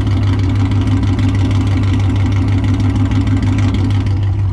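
Car engine idling steadily with a loud, even low rumble.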